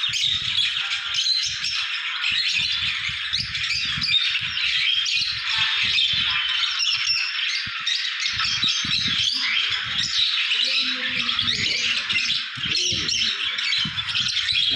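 A flock of small caged pet birds chattering and squawking continuously, many short high calls overlapping at once, with dull low bumps underneath.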